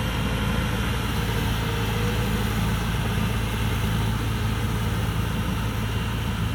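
Amnuay Kan Chang combine harvester's 260-horsepower diesel engine running steadily while harvesting rice, a constant low hum.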